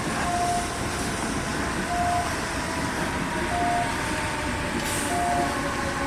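Diesel switcher locomotive running as it moves container freight wagons, with a steady rumble throughout. Over it, a short beep repeats about every one and a half seconds.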